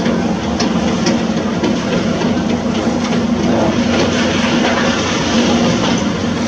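Heavy construction machine's diesel engine running steadily with a low hum, with a few faint clicks over it.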